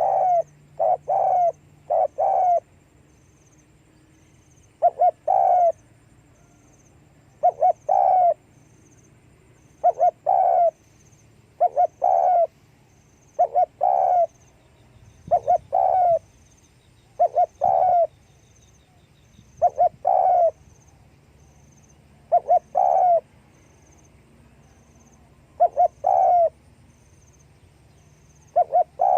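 Spotted dove cooing: short doubled coos repeated about every two to three seconds, about a dozen in all.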